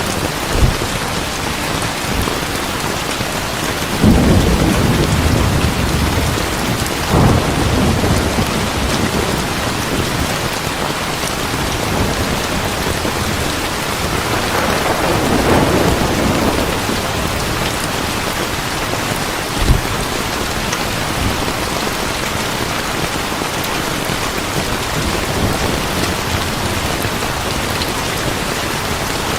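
Heavy rain falling steadily, with thunder: a loud clap about four seconds in that rumbles on for a few seconds, another roll soon after, a longer rumble about halfway, and short sharp cracks near the start and about two-thirds of the way in.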